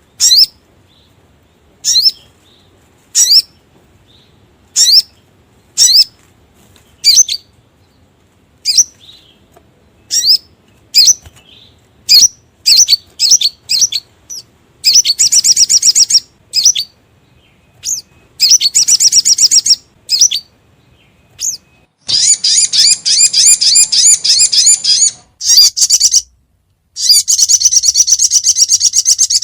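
Sogon (sogok ontong, crimson sunbird) calls from a lure recording. At first there are sharp, high single chirps about once a second. From about halfway the chirps bunch together, then turn into rapid, high trills two to three seconds long, the last running to the end.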